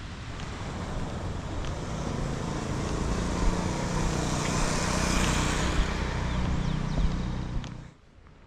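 A motor vehicle's engine running close by, growing louder over several seconds, then cutting off suddenly about eight seconds in.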